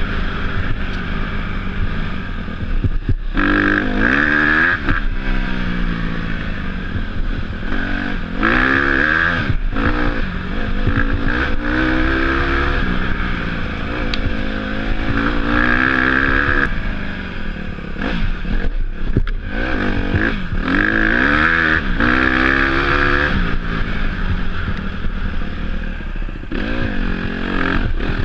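Dirt bike engine revving, its pitch climbing and dropping back repeatedly as the throttle is opened and rolled off, with some clattering.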